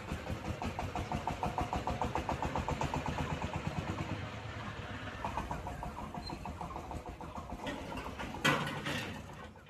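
A railway locomotive running with a fast, even pulsing. A short burst of louder noise comes near the end before the sound fades away.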